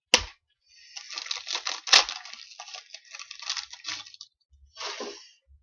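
Foil trading-card pack wrapper crinkling and tearing as it is opened, with a couple of sharp clicks, one just at the start and one about two seconds in.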